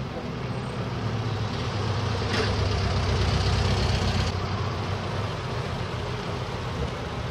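A vehicle engine running at low revs, a steady low rumble that grows louder for a couple of seconds around the middle and then eases off.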